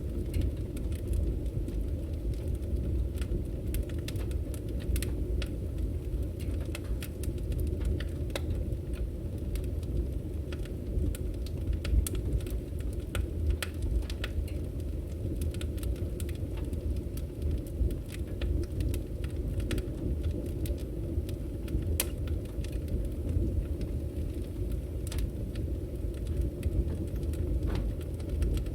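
Firewood burning: a steady low rumble of flames with scattered sharp crackles and pops from the logs.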